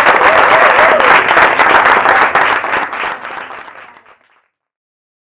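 Audience applauding, with a few voices calling out in the first second; the applause fades out about three to four seconds in, down to silence.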